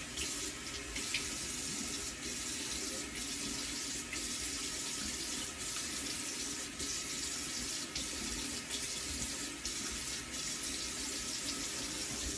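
Bathroom tap running steadily into a sink while a safety razor is rinsed under it.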